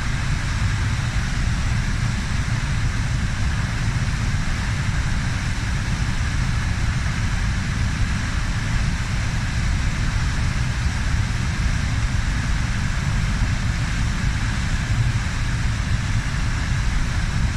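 Waterfall rushing: a steady wash of falling water, heaviest in a deep rumble, unchanging throughout.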